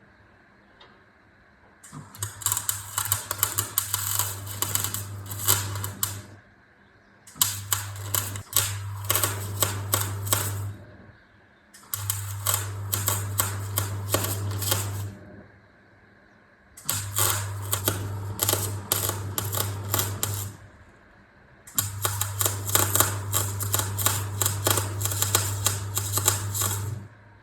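Electric welder arc crackling and spitting in five runs of about three to five seconds each, with a steady mains hum from the welder that starts and stops with each run, as a new piece is welded onto a Kubota's bent bucket.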